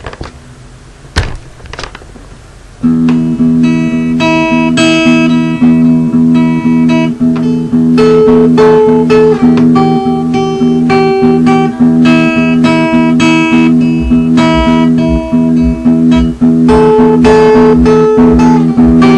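Acoustic guitar fingerpicked in a repeating riff over ringing low notes, starting about three seconds in. It is an unfinished idea for an original song.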